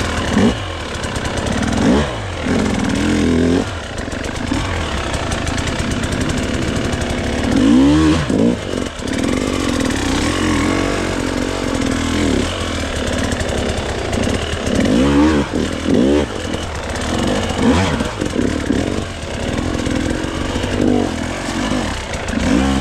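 Dirt bike engine being ridden hard, revving up and falling back again and again, the pitch sweeping up and down every second or two.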